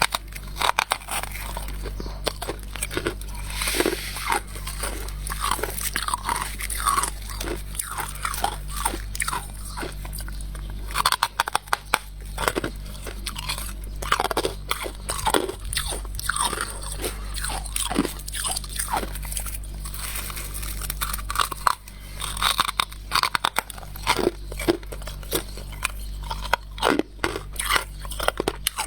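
Frost scraped from a humidifier being bitten and chewed, close-miked: a dense, irregular run of crunches and crackles of soft ice.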